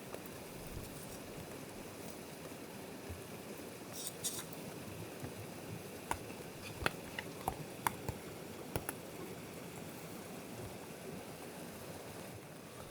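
Steady rushing murmur of a forest stream, with a handful of sharp clicks about halfway through.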